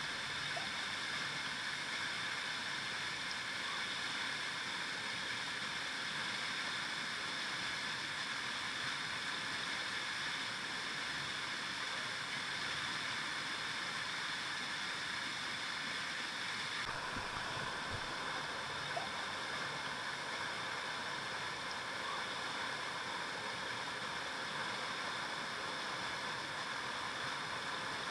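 Steady rushing and gurgling of a flowing river, with a slight change in tone about seventeen seconds in.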